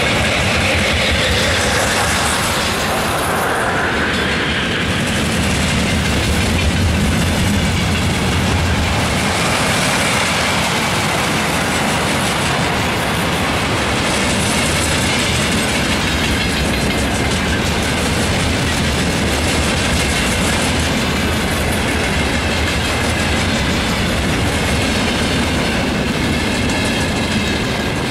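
Freight train wagons rolling past close by at speed: tank-container flatcars, tank cars and open wagons. Their wheels make a steady, loud rolling rumble with a continuous clickety-clack over the rail joints.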